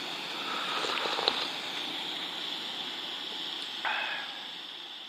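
Steady rush of flowing stream water, with a sharp click about a second in and a brief higher sound near four seconds; the rush eases off toward the end.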